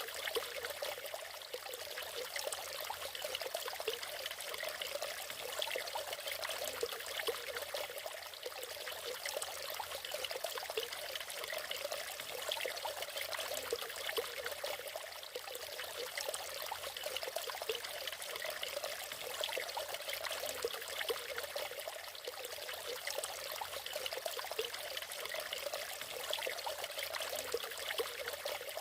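Waterfall: water pouring and splashing steadily, a continuous hiss with a flicker of small splashes.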